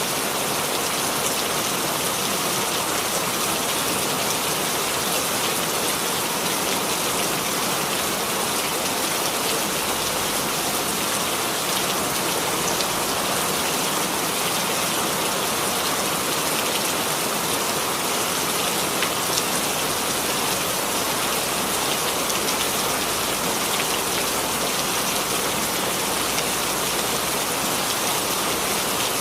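Steady rain falling, a continuous even hiss with faint patters of individual drops.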